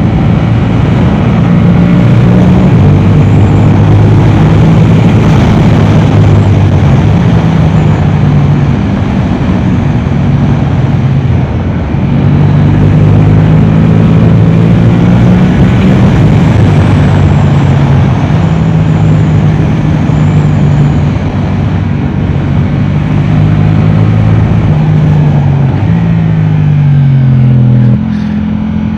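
Yamaha R7's 689 cc parallel-twin running hard through an Akrapovic exhaust on track, its note holding and then stepping in pitch again and again as the rider works through the gears. Near the end the pitch slides down and the sound drops off as the bike slows.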